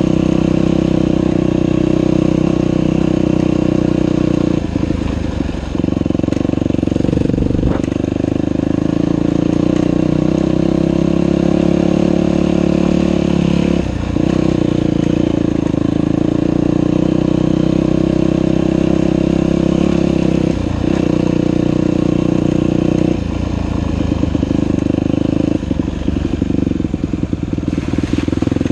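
Dirt bike engine running hard at steady revs, with brief dips every several seconds. In the last few seconds the sound turns choppy and broken up, rising and falling quickly on the throttle.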